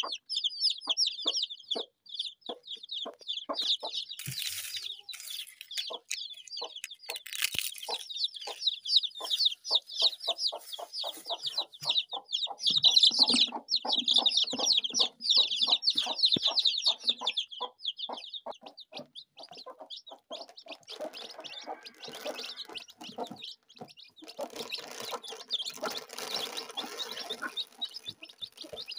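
Chickens clucking, with a dense stream of high-pitched peeping over short, lower clucks; the peeping thins out a little past halfway.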